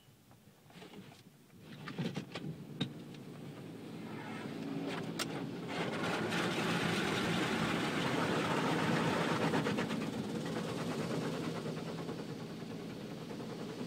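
Automatic car wash machinery starting up: a few clicks and knocks, then a steady rushing of spray and machine noise with a low motor hum that builds over several seconds and holds.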